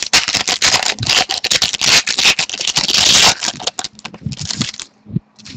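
Foil trading-card pack wrapper crinkling loudly as it is torn open, for about three seconds, then quieter rustles and taps.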